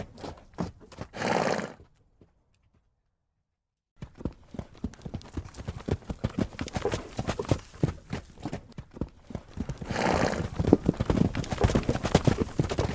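Horse hooves clip-clopping with a horse neighing about a second in, then a couple of seconds of silence, then more hoofbeats and a second, longer neigh about ten seconds in.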